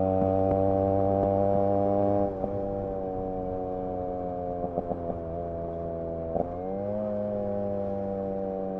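Yamaha RX 100's single-cylinder two-stroke engine and exhaust running at a steady, even pitch while being ridden. It gets a little quieter about two seconds in, with a few clicks later and a brief dip and rise in pitch past six seconds.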